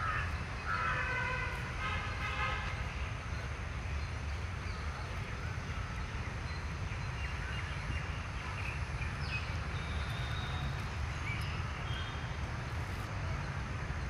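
Crows cawing, two harsh calls in the first few seconds, over a steady low rumble of wind or distant traffic. Faint bird chirps follow later.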